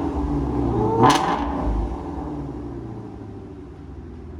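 Shelby GT350's 5.2-litre flat-plane-crank V8 exhaust, blipped sharply once about a second in, then dropping back and settling toward a lower, steadier idle.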